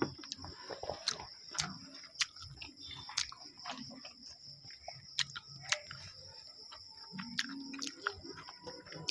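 Close-up chewing of chow mein noodles with the mouth closed: irregular wet mouth clicks and smacks, several a second. A steady high-pitched tone hums underneath.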